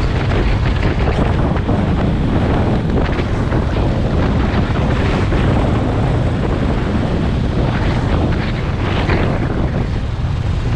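Wind buffeting the microphone on a moving motorcycle, a steady rough rush over a low rumble.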